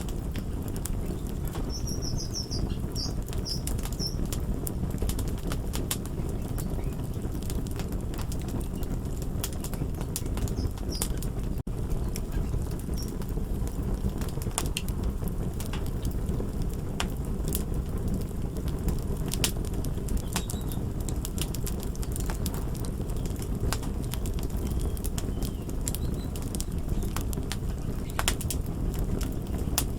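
Fire crackling: irregular sharp pops and snaps over a steady low rushing noise.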